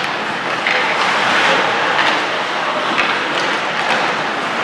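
Ice hockey arena din during play: a steady noisy wash of rink sound, with a few sharp clicks.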